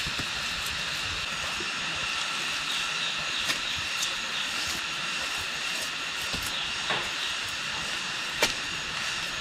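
A steady high hiss with four short, sharp clicks or knocks, the loudest near the end.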